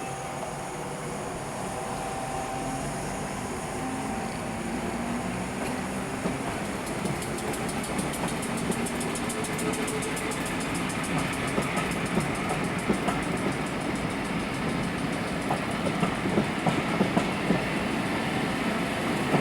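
The English Electric traction motors of a British Rail Class 416 (2EPB) electric multiple unit whine and rise in pitch as the train gathers speed; the description calls them very old and worn. Wheels clack over rail joints, louder and more frequent toward the end.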